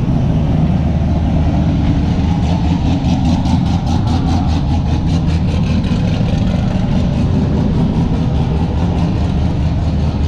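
Car engines at idle, a loud steady low exhaust rumble, with a fast even pulsing in it for a few seconds from about two seconds in.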